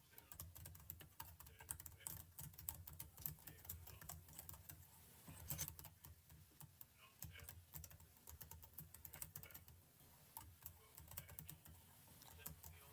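Computer keyboard keys clicking faintly in irregular runs of taps.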